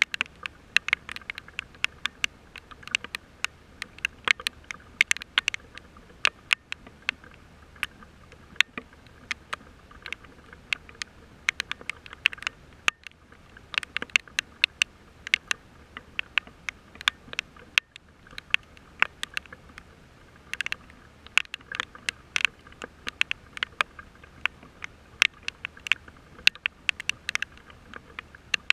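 Raindrops striking close to the microphone, a dense, irregular run of sharp ticks, several a second, over a faint steady background hum.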